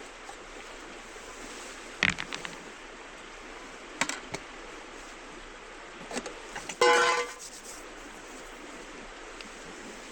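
Steady rush of a flowing river, with a few sharp clicks and knocks about two and four seconds in, and a louder clattering burst with a short ring about seven seconds in.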